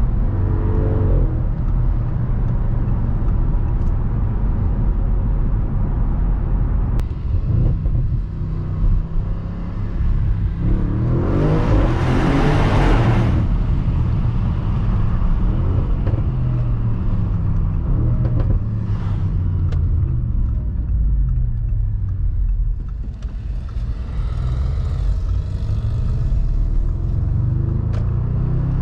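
Audi RS6 Avant's twin-turbo V8 running on the move, its pitch rising and falling as it accelerates and shifts gears. A loud rushing swell lasts about two seconds, some twelve seconds in.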